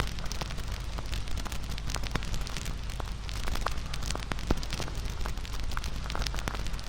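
Wood bonfire burning and crackling, with frequent small, irregular pops and snaps over a steady low rush.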